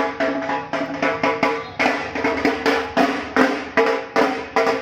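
A drum beaten in a fast, uneven rhythm, about four strokes a second, each stroke ringing with a pitched tone.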